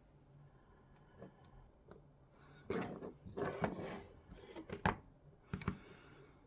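Small parts being handled on a workbench: a few sharp clicks, with a stretch of rustling and scraping in the middle.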